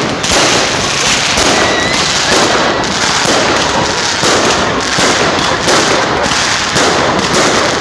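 New Year fireworks going off in a dense, continuous barrage of rapid bangs and crackling with no pause.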